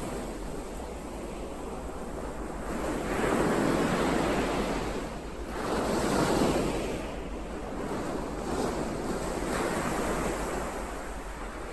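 Ocean waves breaking and washing on a shore, in slow swells of noise that rise and fall. The biggest come about three seconds in and about six seconds in, with smaller ones after.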